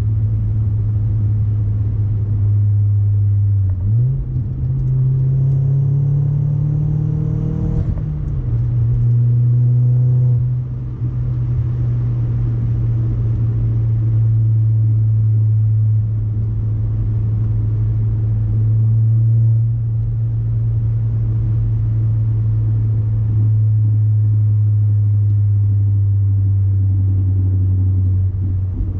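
Audi A4 1.8T turbocharged four-cylinder with a resonator-delete catback exhaust, running steadily at a constant engine speed. About four seconds in, the revs climb for a few seconds, then drop back at about eight seconds as on a gear change, and the engine holds a steady tone again.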